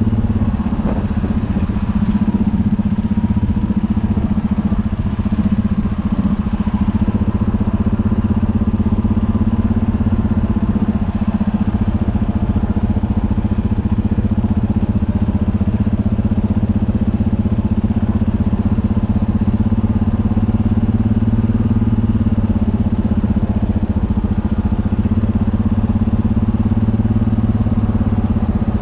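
UTB Universal 650 tractor's four-cylinder diesel engine running steadily at an even speed.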